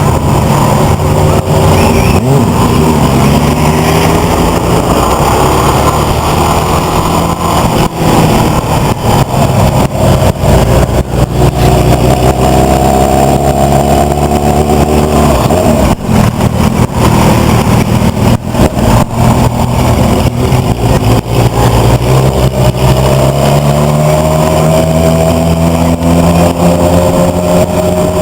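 Motor engines running hard, loud and continuous, with the pitch climbing several times as they rev up through the gears.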